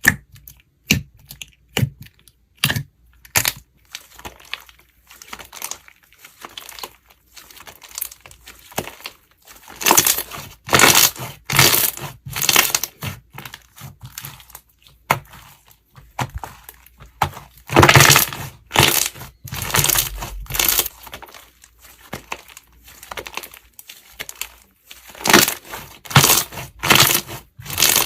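Slime being handled: a run of sharp clicks and pops in the first few seconds, then repeated bursts of crackling as it is pressed and squished.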